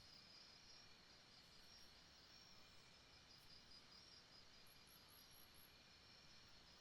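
Faint night rainforest ambience: insects trilling steadily in a high, pulsing chorus over a soft hiss, with a quick run of five high chirps about five seconds in.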